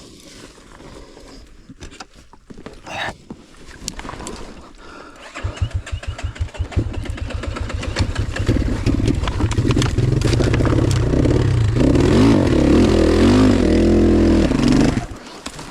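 Enduro motorcycle engine starting about five seconds in, firing slowly at first, then running and revving with rising and falling pitch before cutting out abruptly near the end.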